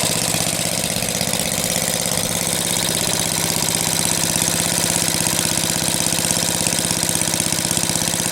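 1948 Briggs and Stratton WMB single-cylinder four-stroke engine running steadily with an even firing beat, running well on its first run after a cold start.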